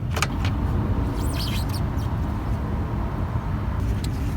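Light clicks and a brief scraping of metal engine parts being handled, as the distributor is worked loose, over a steady low rumble.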